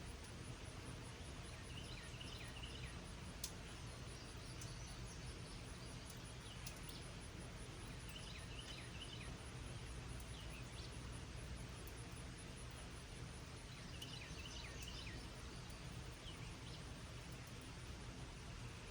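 Steady light rain falling, with a songbird singing a few short chirping phrases over it.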